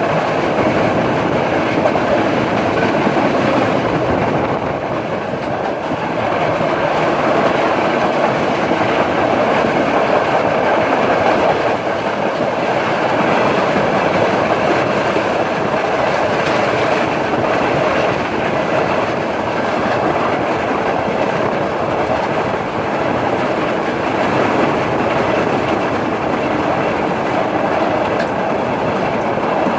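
Udaya Devi express passenger train running along the line: a steady, loud noise of wheels rolling on rails with no breaks or changes.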